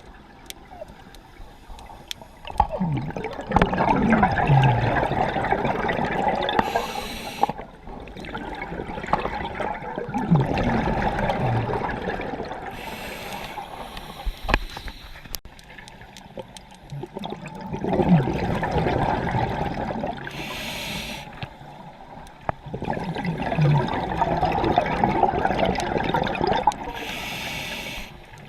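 Scuba diver breathing through a regulator underwater, about four breaths. Each exhale is a long gush of bubbles with low gurgles, and each inhale is a short hiss from the regulator.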